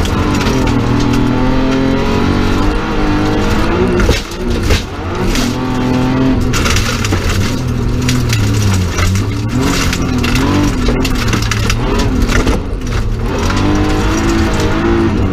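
BMW 325 rally car's straight-six engine heard from inside the cabin, revving hard and rising and falling in pitch through gear changes, with a brief lift off the throttle about four seconds in. Sharp knocks from the gravel road run under the engine.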